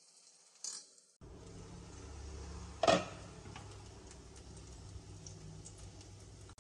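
Stuffed vegetable rounds sizzling in hot oil in a frying pan, a steady crackling hiss that comes in about a second in. Near the middle, one sharp clink of metal tongs against the pan stands out as the loudest sound.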